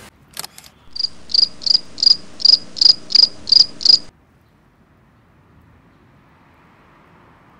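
Insect chirping: about nine high-pitched chirps at roughly three a second, preceded by two sharp clicks, stopping abruptly about four seconds in, leaving a faint steady hiss.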